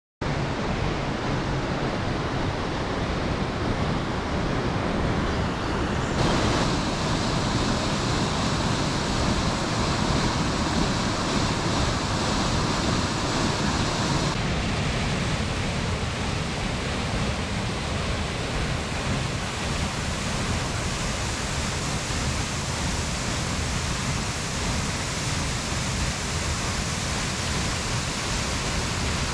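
Waterfall rushing: a steady noise of falling water, its tone changing abruptly about six seconds in and again about halfway through.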